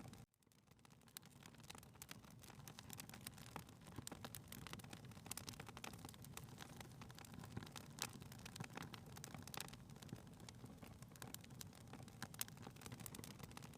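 Faint fireplace crackling: scattered irregular wood-fire pops and snaps over a low rumble, fading back in after a brief dropout near the start.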